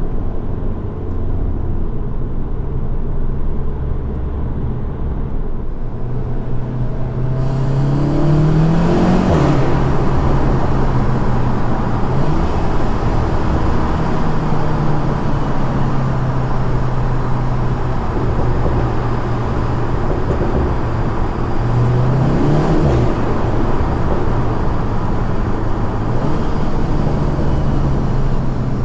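Seat Leon Cupra 300's turbocharged 2.0-litre four-cylinder and stock exhaust heard from inside the cabin while driving. It holds steady revs, and the revs climb and fall back three times. Road noise grows louder from about a quarter of the way in.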